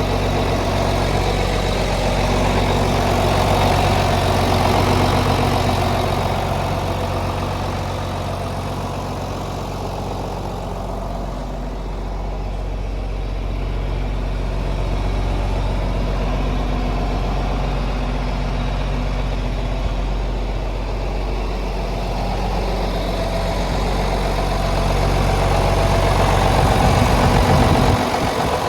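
John Deere 4630 tractor's six-cylinder turbo diesel engine idling steadily, its level swelling and fading gently.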